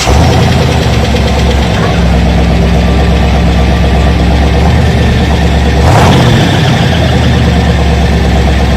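A 1973 car's 454 big-block V8 idling with a steady low rumble, blipped once about six seconds in.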